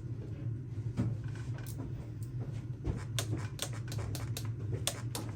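A steady low hum with a few scattered knocks, then a quick run of about a dozen sharp, irregular clicks starting about three seconds in.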